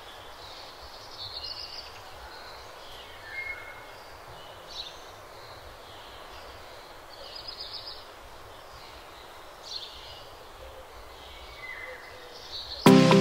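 Birdsong over a steady outdoor background hiss: short high trills and chirps every couple of seconds. Music starts suddenly near the end.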